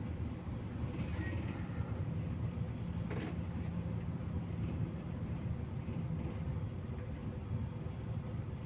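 Cabin noise of a MAZ-215 articulated city bus on the move: a steady low rumble of engine and tyres, with a short sharp clack about three seconds in.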